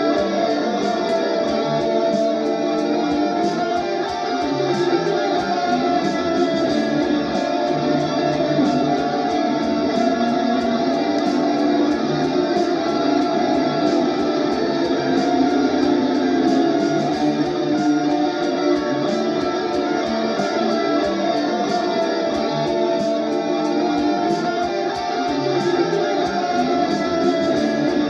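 Electric guitar played through a Valeton GP-200 multi-effects processor, improvising over a steady drum-machine beat.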